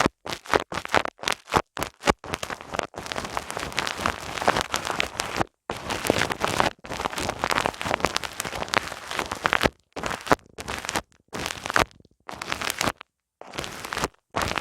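Fingers rubbing and scratching directly on a binaural ASMR microphone's ears, a loud crackly friction noise. It comes in short bursts and two longer stretches in the first ten seconds, each cut off sharply by dead silence.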